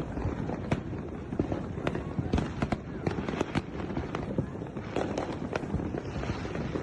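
Fireworks going off in a rapid, irregular string of sharp bangs and cracks, several a second, over a continuous crackle.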